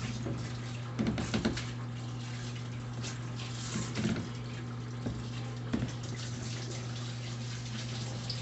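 Water sloshing in the tub of a Brastemp Intelligent 7 kg washing machine during its soak stage, over a steady low hum. A few louder splashes come about a second in, around four seconds and near six seconds.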